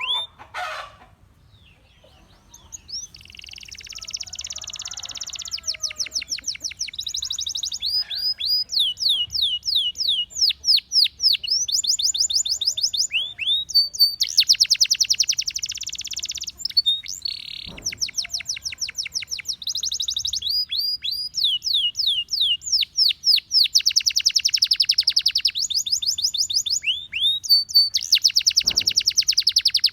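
Gloster canary singing: after a short pause, a long song of fast trills of repeated high sweeping notes and rapid buzzy rolls, broken by brief gaps.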